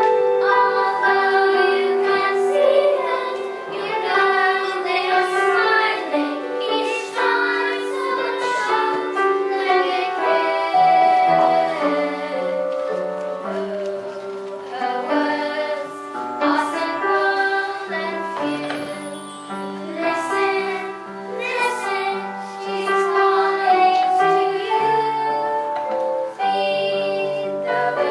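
A young female voice singing a slow song over instrumental accompaniment.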